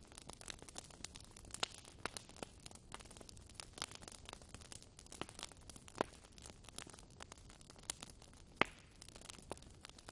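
Wood fire in a fireplace crackling: a soft, steady hiss with frequent irregular pops and snaps, two sharper pops at about six seconds and just before nine seconds.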